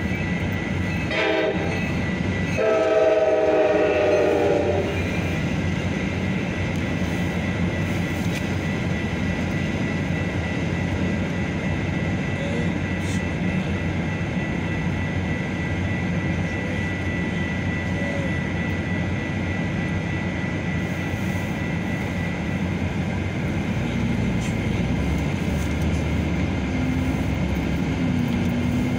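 Metra commuter train's horn sounds a short blast about a second in, then a longer one lasting about two seconds. The train then rolls past a grade crossing with a steady rumble and rattle of wheels on rails. Near the end a car engine picks up as the car pulls away across the tracks.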